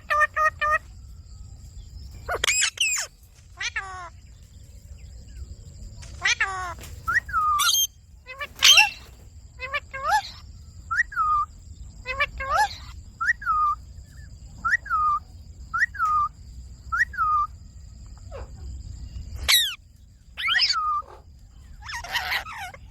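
Indian ringneck parakeet calling: a run of short, repeated falling chirps broken by several louder, sharp rising-and-falling squawks.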